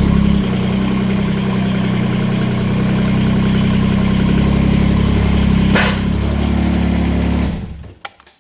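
An engine idling steadily, settling slightly lower about half a second in, with a short hiss near six seconds. It is then shut off and runs down to a stop in under a second near the end.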